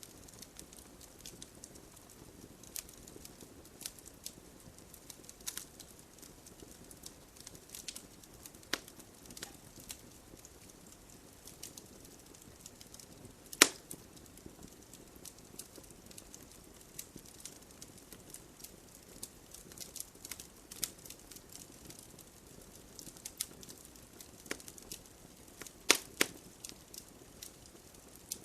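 Wood fire burning in a fireplace: a low steady hiss with scattered sharp crackles and pops from the burning logs, the loudest snap about halfway through and a close pair of pops near the end.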